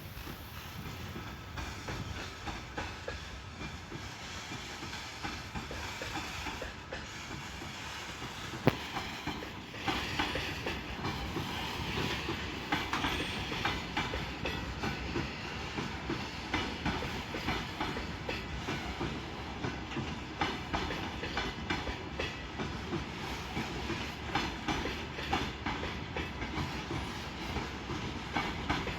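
Train passing on the line, its wheels clattering over rail joints in a quick, continuous rhythm, getting louder about ten seconds in.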